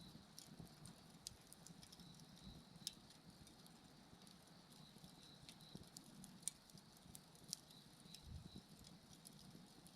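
Wood fire burning quietly: a soft low flame rustle with scattered sharp crackles and pops of burning wood. A faint insect chirps in short repeated notes behind it.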